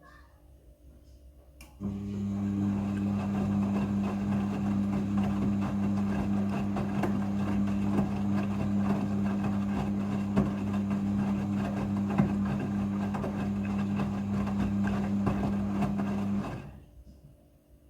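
Midea front-loading washing machine running during its rinse cycle: a steady motor hum over a rushing, ticking noise. It starts suddenly about two seconds in and cuts off shortly before the end.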